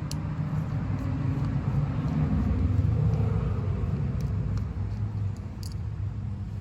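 A low, steady rumble that swells a little in the middle, with a few light clicks.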